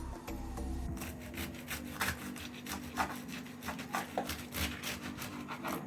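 A knife sawing back and forth through a bread sandwich, each stroke a dry rasping scrape.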